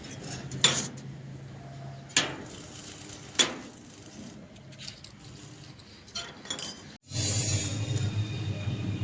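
Metal-on-metal clanks, three sharp strikes with a brief ring in the first three and a half seconds and a few lighter knocks after. After a cut, a steady low machine hum with a faint high whine takes over near the end.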